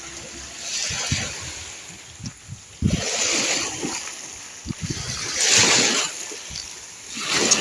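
Small waves washing onto the beach, each wash rising and falling away every two seconds or so.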